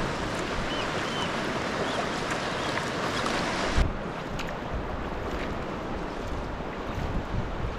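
Water sloshing and splashing around a sea kayak on the open sea, with wind on the microphone and a few faint chirps in the first second. A sharp thump a little before halfway is the loudest sound.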